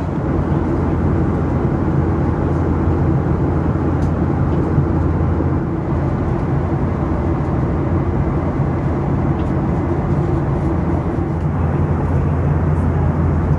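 Steady cabin noise of a Boeing 737 in cruise flight: a constant rush of engine and airflow noise with a low, even hum underneath.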